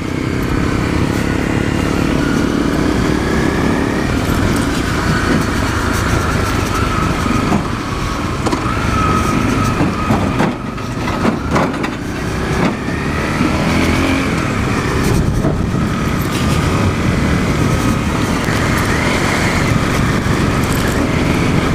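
Dual-sport motorcycle riding on a dirt road: the engine runs steadily with its pitch drifting up and down. A few short sharp knocks come around the middle.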